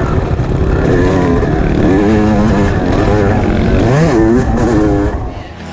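Dirt bike engine revving up and down as it is ridden, its pitch rising and falling over and over, with a sharp climb about four seconds in; the sound fades near the end.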